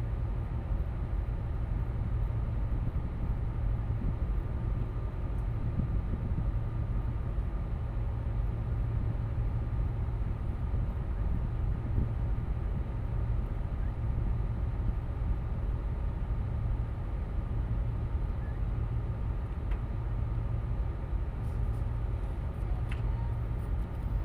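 Tugboat's diesel engine running steadily: a constant low drone with a faint steady whine above it.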